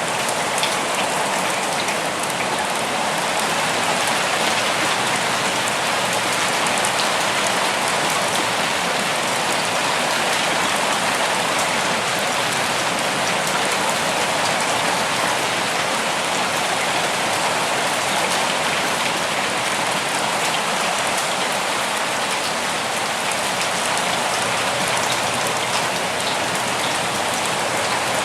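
Steady rain falling, a dense even patter of drops with faint individual drop ticks.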